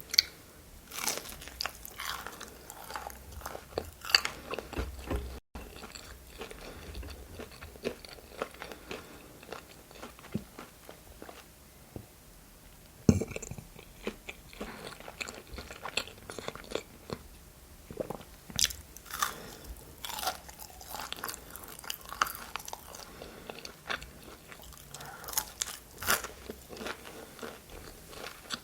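Close-miked eating: crunchy bites and chewing of breaded chicken nuggets and pickles, in clusters of sharp crackles with two loud bites, one at the very start and one about 13 seconds in.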